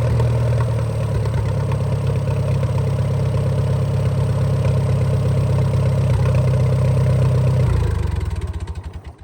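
Allis-Chalmers pulling tractor engine idling steadily, then shut off near the end, its beats slowing as it runs down to a stop.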